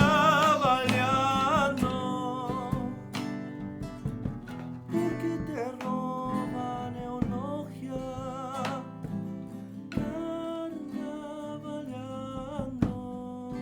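Live Argentine folk zamba, played in 3/4 on acoustic guitar. A sung note with vibrato ends about two seconds in, and the guitar carries on between verses with short melodic phrases over its strumming.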